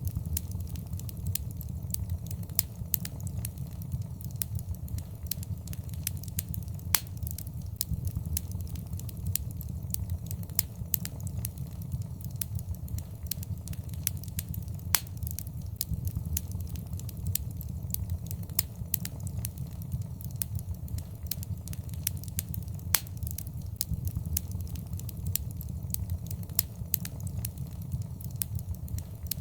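Wood fire in a fireplace crackling: a steady low rumble of flames under frequent sharp pops and snaps, with a few louder pops standing out about every eight seconds.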